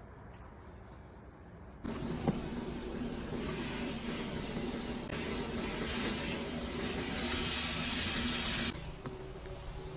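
A loud rush of air with a steady motor hum underneath, typical of vent-cleaning equipment moving air. It switches on abruptly about two seconds in and cuts off abruptly near the end.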